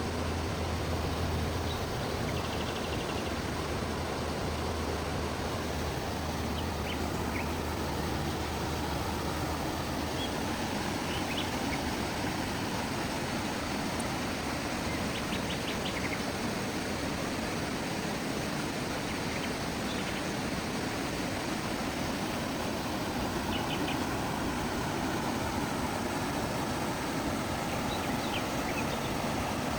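Outdoor ambience: a steady rushing noise with scattered short bird chirps. A low engine hum underlies the first third and then fades out.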